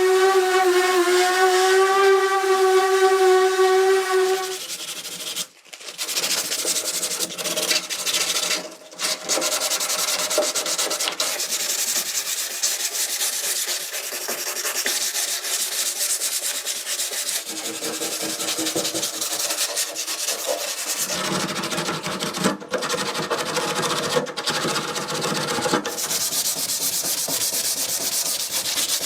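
A power tool whines at a steady pitch for the first few seconds, then gives way to loud, continuous abrasive sanding, broken by a few short pauses.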